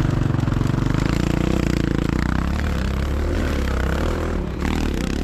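Racing sidecar motocross motorcycle engines running hard at high revs. The nearest one is loud for the first two seconds or so, then drops away while other engines keep running.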